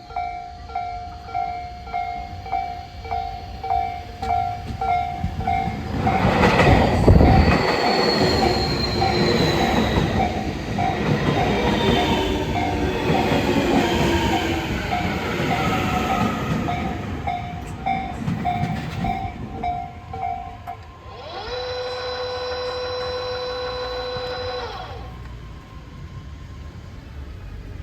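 An electric commuter train, a Tobu 60000-series, runs into the station, its motor whine falling in pitch as it slows. Under it a level-crossing warning bell rings about twice a second, then stops. A few seconds later a pitched horn sounds once for about three and a half seconds.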